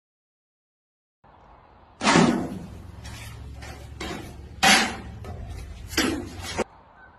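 Three sharp bangs or knocks, each ringing briefly, over a low steady hum; they begin about a second in, after silence.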